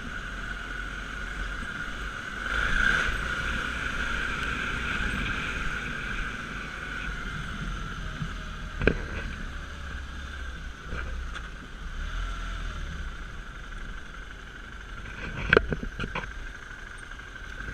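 Dirt bike engine running at a steady pace while riding, over a low rumble, with a sharp knock about nine seconds in and a cluster of knocks about fifteen seconds in.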